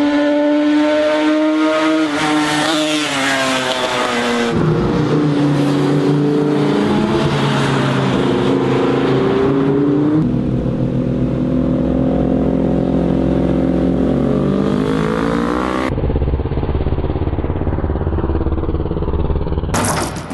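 Big sport motorcycles revving hard at high speed, their engine pitch rising and falling. The sound changes abruptly about every five seconds, from one bike's run to the next.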